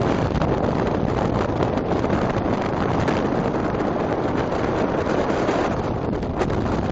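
Very strong wind buffeting the camera's microphone, a loud, steady rush with no pause.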